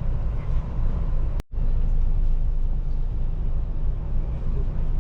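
Steady low rumble of a motorcoach idling, heard from inside the coach, with the sound cutting out for a split second about one and a half seconds in.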